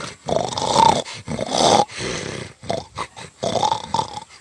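A man's voice imitating an angry lion: rough, throaty growling roars, one long one followed by a few shorter ones.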